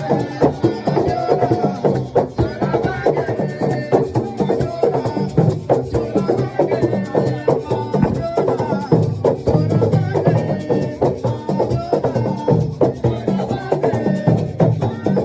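Live percussion music from a drum group: many drums struck in a dense, fast, unbroken rhythm.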